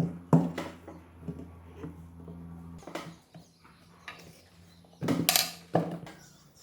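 Short knocks and clinks of hard parts or tools being handled, loudest near the end, over a steady low hum that cuts off about halfway through.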